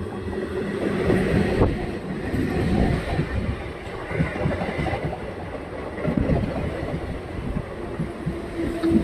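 Electric multiple unit local train passing close by, coach after coach, its wheels clattering over the rail joints in a steady rumble. The sound swells in the first second or two as the front of the train arrives.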